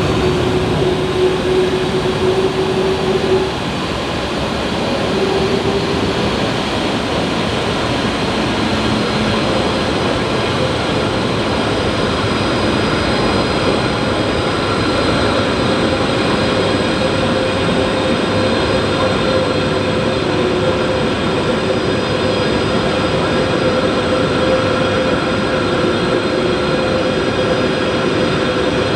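Lockheed C-5M Super Galaxy's four turbofan engines running steadily at taxi power: a loud, even rush laced with steady whining tones.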